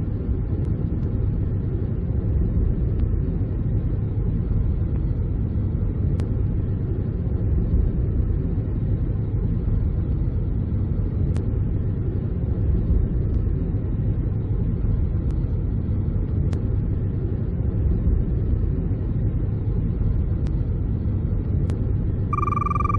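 Steady low road rumble of a car driving at an even speed. A brief electronic tone sounds near the end.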